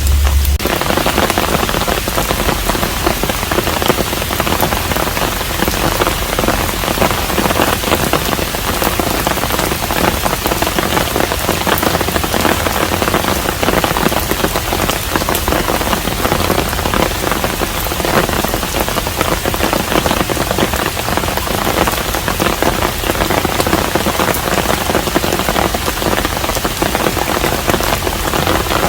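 Steady rain falling on a Korean hanok, a dense even hiss dotted with many separate drop strikes.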